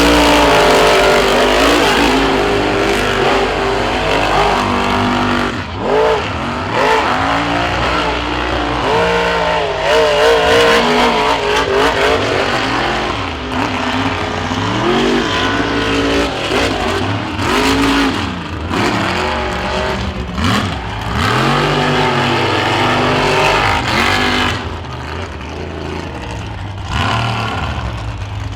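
Off-road vehicle engine revving hard, its pitch surging up and falling back again and again.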